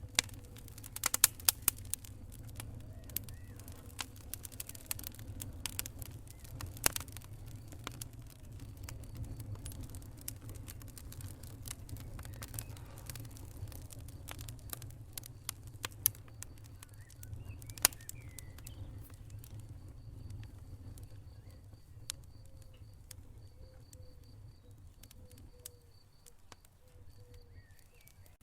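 Wood fire burning in a fireplace: a steady low rumble of flames with scattered sharp crackles and pops, thickest in the first few seconds and thinning out toward the end.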